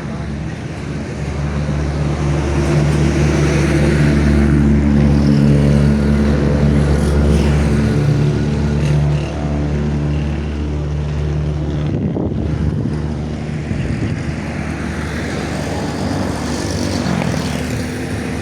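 Ford 4600 tractor's diesel engine running steadily. It gets louder over the first few seconds and eases back about nine seconds in.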